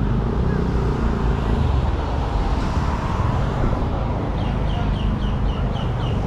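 Small motorcycle engines running with a steady low rumble. A quick run of about eight short high chirps comes near the end.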